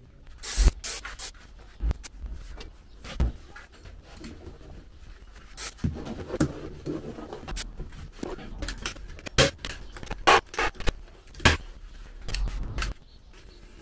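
Handwork on plywood boards: scattered sharp knocks and taps, with rubbing and scraping between them.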